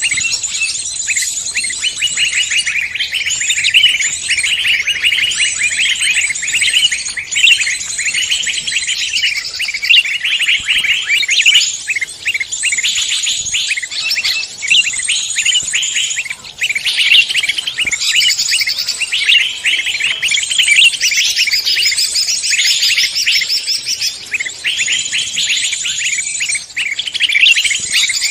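Many songbirds chirping and trilling over one another: a dense mixed chorus of high, rapid calls with no pauses.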